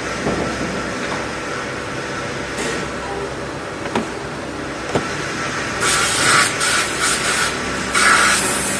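Steady hum of a running CNC machine, with two light clicks, then from about two-thirds of the way in, repeated short bursts of hissing.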